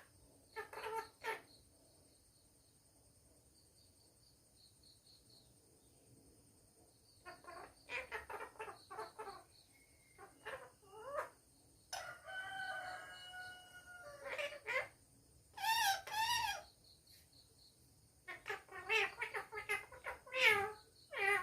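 Pet parrot calling and chattering in short bursts, with a held whistle-like note near the middle and a wavering, quavering call a little later.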